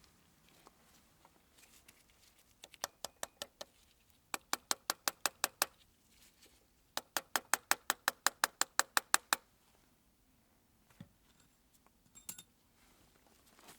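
Three runs of sharp mechanical clicks, evenly spaced at about seven a second, followed by a few faint knocks near the end.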